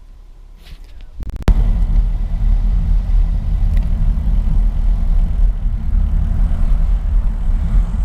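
Wind rumbling on the microphone of a camera riding along on a moving bicycle. It starts abruptly after a few clicks about a second and a half in and stays loud and steady.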